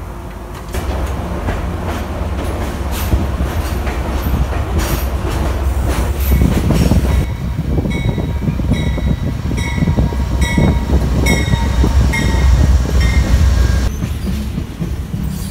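Passenger train rolling slowly out of the station: a steady low rumble of the cars with clicking over rail joints and switches. From about halfway in, the wheels squeal high and on and off, and this stops shortly before the end.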